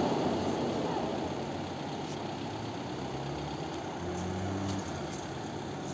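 Car engines idling, then an engine hum that sets in about four seconds in as a car moves off. Over the first two seconds a broad rumble fades away.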